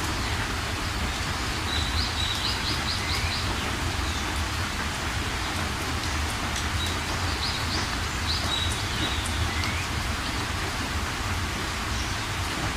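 Steady rain falling, with a songbird singing a short phrase of quick repeated notes twice, about two seconds in and again about seven seconds in.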